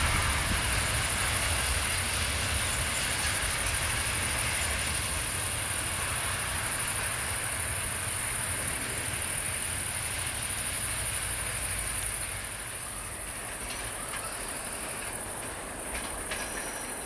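Diesel-hydraulic locomotive and its passenger coaches running away along the track, a steady rumble and wheel noise that slowly fades. A few sharp clicks near the end.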